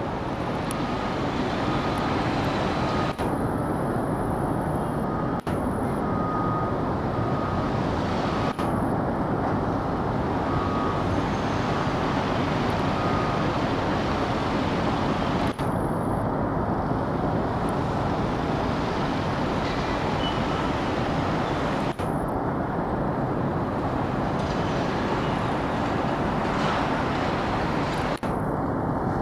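Steady road traffic noise, with abrupt changes in character every few seconds where separate outdoor recordings are joined.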